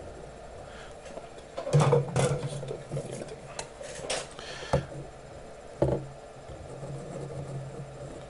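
A handful of sharp knocks and taps, like tools or a circuit board being handled and set down on a workbench, over a steady low hum. A quick cluster comes about two seconds in, then single knocks near four, five and six seconds.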